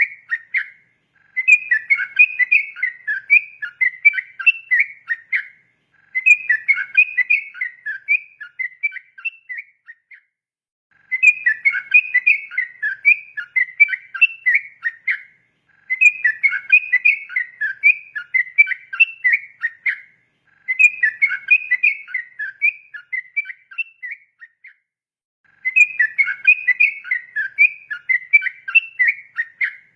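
A trucukan (yellow-vented bulbul) singing a long, rapid, bubbling whistled song in repeated phrases of about four to five seconds, each separated by a brief pause of about a second.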